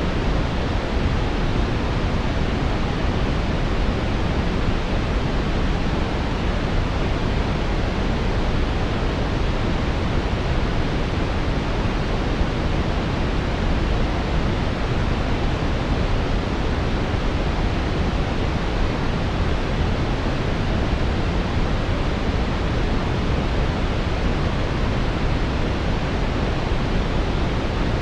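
Steady brown noise: an even, deep rushing hiss, strongest in the lows and soft in the highs, with no changes.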